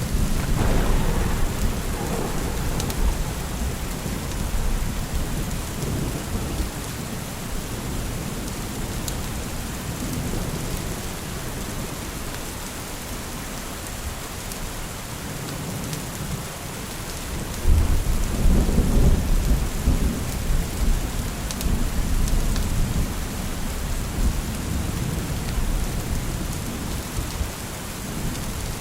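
Steady rain with thunder rumbling: a rolling rumble in the first few seconds and a louder one about eighteen seconds in.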